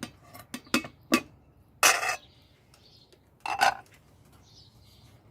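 Kitchen pots and utensils clinking and knocking: a few short, sharp clicks in the first second or so, then a louder, longer clatter about two seconds in and another about three and a half seconds in.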